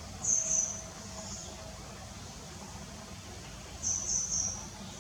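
High, thin bird chirps in two short bursts of a few quick notes each, about three seconds apart, over a steady low background rumble.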